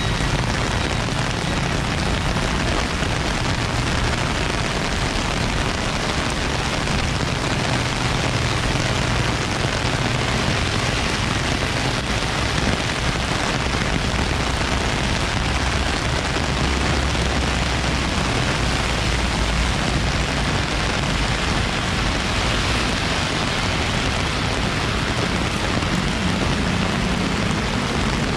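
Heavy rain falling steadily in a dense, even hiss, mixed with the low rumble of cars and their tyres on the wet road.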